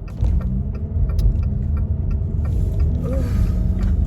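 Car cabin noise while driving: a steady low rumble of engine and road that grows louder shortly after the start, with a few faint clicks.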